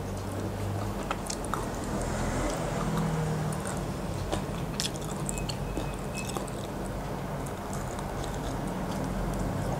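Close-miked chewing and biting of a boiled chicken embryo egg, with many short scattered mouth clicks over a steady low hum.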